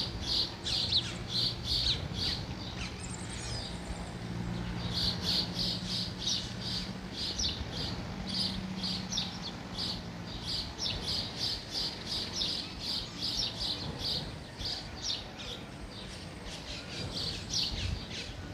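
Small birds chirping: a long run of short, high chirps at about three a second, pausing briefly about three seconds in.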